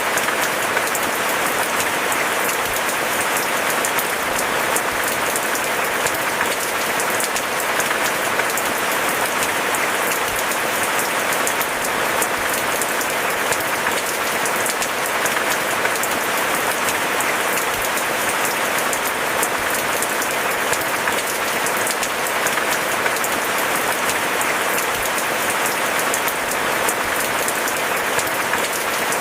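Steady rain: a dense, even patter of countless drops with no let-up.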